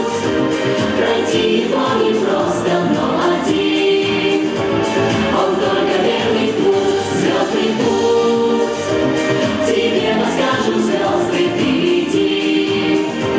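A group of voices singing a pop song together, with instrumental accompaniment.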